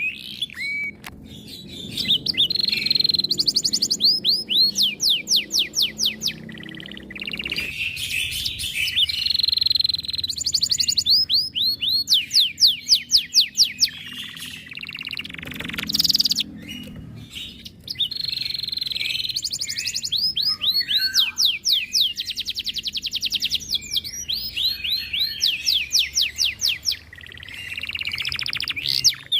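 Domestic canary in high breeding condition singing loudly: long phrases of fast rolling trills made of rapidly repeated sweeping notes, mixed with chirps and broken by short pauses.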